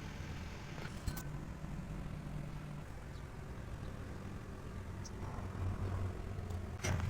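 An engine running steadily at low speed, with a sharp metallic click about a second in and another near the end.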